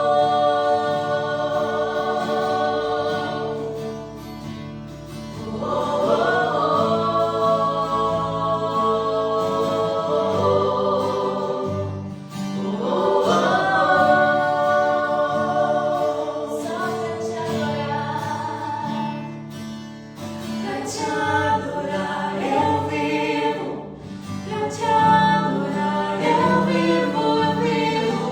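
Christian worship song: singers hold long, drawn-out phrases over a steady instrumental accompaniment, a new phrase beginning every six or seven seconds.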